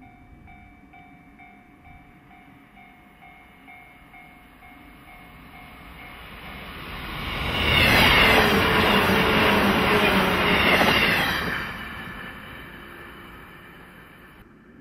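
An electric express train passing close at speed, its wheels clattering over the rails. The sound builds over a few seconds, stays loud for about four seconds as the cars go by, then fades away.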